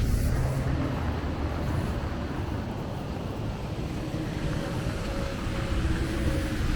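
Steady city street traffic noise: a low rumble of passing vehicles.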